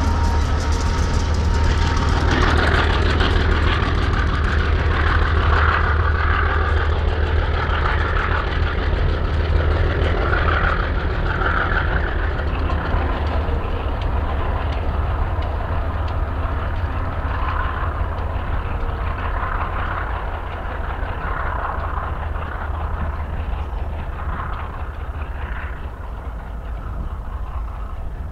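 BNSF freight train cars rolling past on the rails, a steady rumbling noise that slowly grows quieter as the train moves away.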